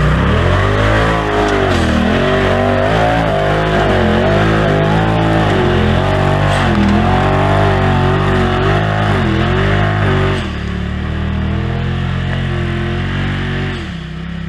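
Polaris RZR side-by-side engine revving up and down in repeated surges as it climbs a steep hill, then easing off to a lower, steadier run about ten seconds in.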